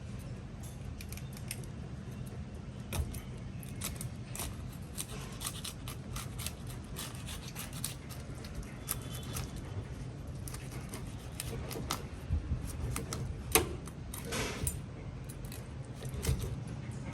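Scattered light clicks, clinks and small scrapes of hand work with kitchen tools, with a few louder knocks near the end, over a steady low hum.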